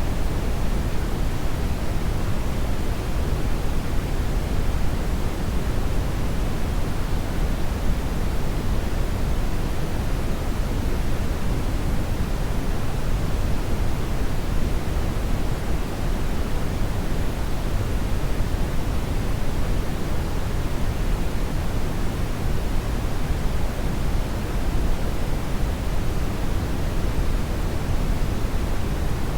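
Hair dryer running steadily: an even rush of blown air that does not change in pitch or level.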